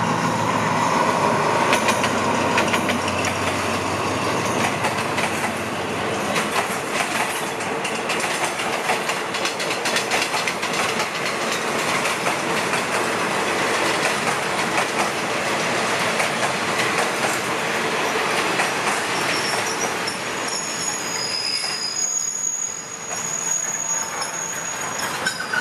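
Diesel-hauled passenger train rolling slowly past as it pulls into the station. The locomotive's engine is heard at first, then a steady rumble of carriage wheels with clicks over the rail joints. A thin, high squeal comes from the wheels in the last few seconds as the train slows.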